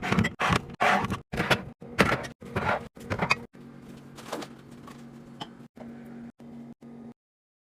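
Fridge restocking handling sounds in quick cuts: a run of short knocks, slides and rustles as containers and drawers are handled. They grow quieter about three and a half seconds in, with a low steady hum underneath, and cut off abruptly about seven seconds in.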